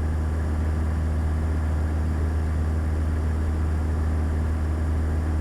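Steady cabin drone of a Beechcraft Sundowner's four-cylinder Lycoming engine and propeller in cruise, an even low hum that holds constant throughout.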